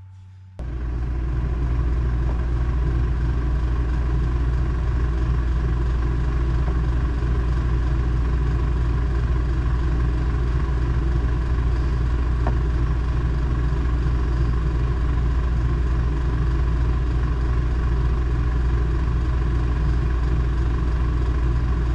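Truck engine idling steadily with the air-conditioning blower running, heard from inside the cab. The owner blames a noise from the system on a broken blower squirrel-cage fan.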